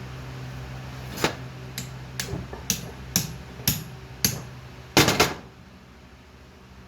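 Metal striking metal: about seven sharp, ringing taps, evenly spaced about half a second apart, then three quicker, louder clanks about five seconds in. A steady background hum cuts off right after the clanks.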